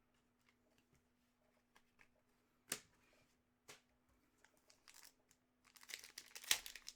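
Faint handling of trading cards: a few scattered sharp clicks and snaps, then, in the last second or so, dense crinkling of a foil card-pack wrapper being torn open.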